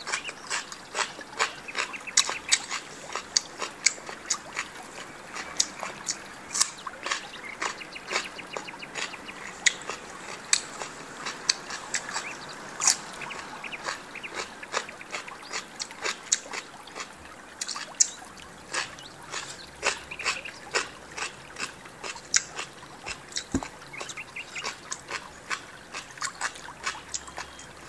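Close-miked eating sounds: wet chewing, lip-smacking and crunching as steamed chicken feet and raw cucumber are eaten, a dense run of sharp clicks and smacks several times a second.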